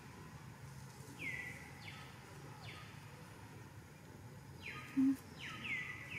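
Repeated bird calls, each a short note that drops in pitch and then holds, sounding about five times over steady outdoor background noise. About five seconds in there is a brief, louder low note.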